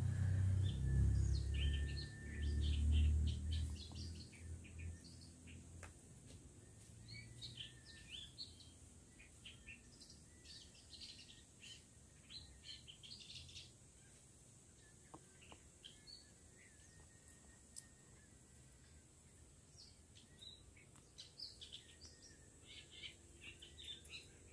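Wild long-tailed shrike singing a run of short, varied chirps and calls. A low rumble during the first few seconds fades out, and a faint steady high tone runs underneath.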